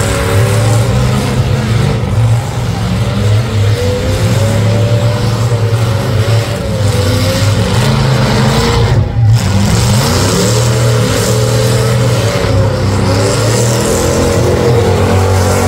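Several full-size demolition derby cars' engines running hard and revving, their pitches rising and falling over one another, with a brief dip about nine seconds in.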